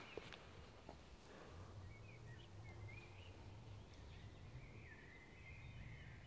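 Near silence, with faint bird chirps now and then from about two seconds in and a longer warbling call near the end.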